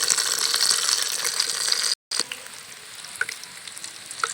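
Chicken pieces deep-frying in hot oil, a steady crackling sizzle. It cuts out for a moment about two seconds in and comes back quieter.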